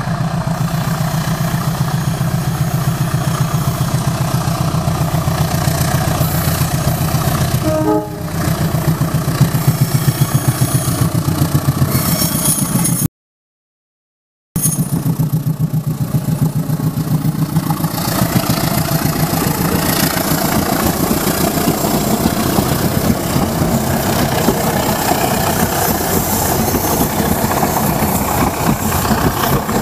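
Diesel locomotive engine running steadily, then, after a brief gap in the sound, growing train rumble from about 18 seconds in as the train moves past.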